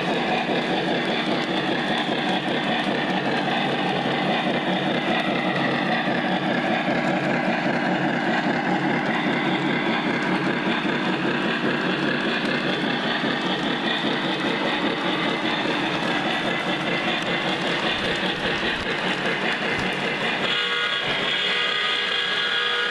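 Lionel Legacy O-scale Santa Fe 4-8-4 Northern model locomotive running on the track, a steady rumble of wheels and drive on the rails. About twenty seconds in, a steady whistle starts over it.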